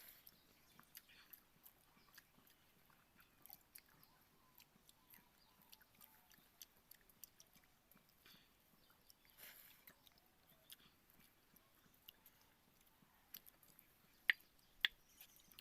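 Faint chewing and small mouth clicks from a person eating basi pakhala (watered rice) with potato curry. There are two sharper clicks near the end.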